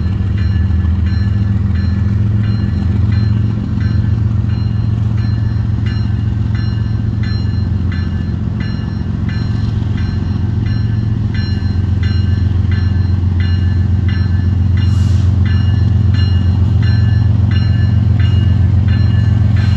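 Ethanol freight train rolling past: a steady low rumble with a regular click of wheels over the rail, somewhat under twice a second.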